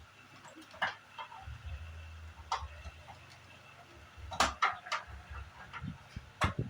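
A few sharp clicks and taps at irregular intervals, several in quick succession past the middle, over a low background hum.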